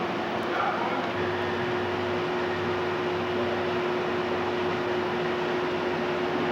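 Steady hiss with a constant low hum tone, with no distinct events.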